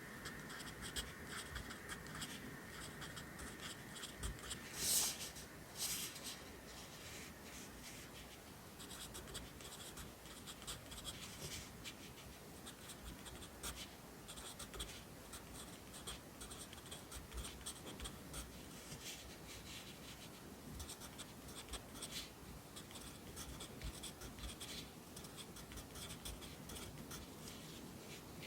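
Pencil writing Korean characters on paper: a steady run of short scratchy strokes, with two louder strokes about five and six seconds in.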